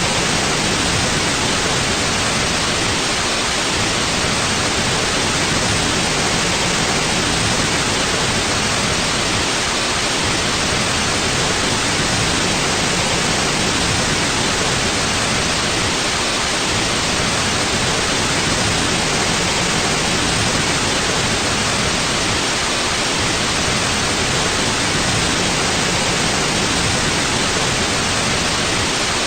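Steady white noise for sleep: an even, unbroken hiss with no changes in level.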